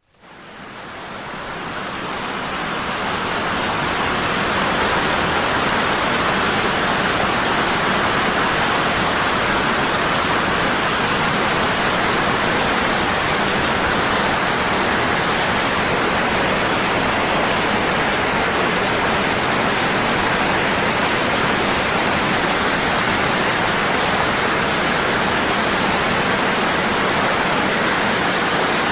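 Waterfall: water falling heavily and constantly, a steady rushing that fades in over the first few seconds and then holds level.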